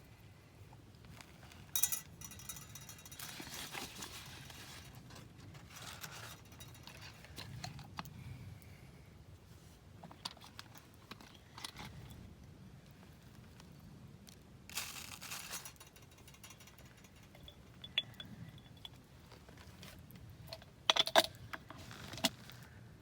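Intermittent handling sounds: light rustling and small clicks, with a brief cluster of sharp clinks or clatters near the end.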